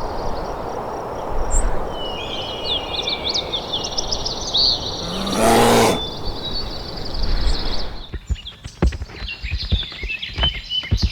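Outdoor wildlife ambience: a steady rushing background with small birds chirping, and one short loud breathy noise a little past the middle. About eight seconds in, the background drops away to scattered knocks and clicks, like hooves or footsteps on the ground, with more bird chirps.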